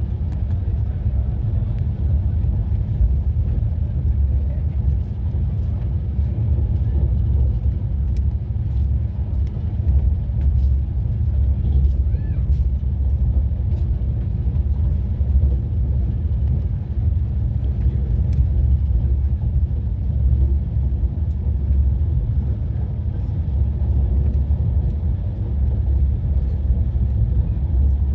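Passenger train running: a steady low rumble.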